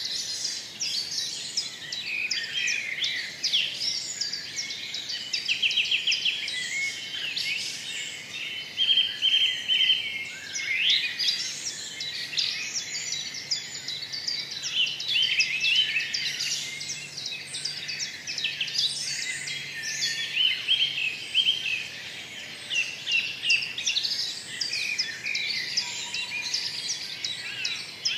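Many small birds chirping and trilling together in a dense, continuous chorus of short high calls, with several quick rattling trills.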